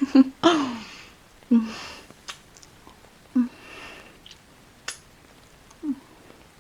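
Close-miked kissing sounds: a handful of separate wet lip smacks, some with a short soft hum or breath, and a few small mouth clicks between them.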